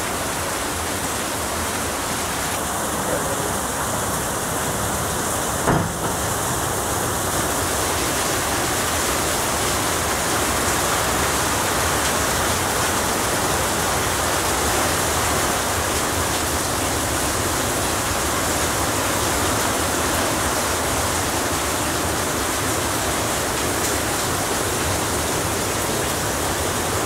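Heavy rain pouring down, a loud steady hiss with no letup. A single brief knock sounds about six seconds in.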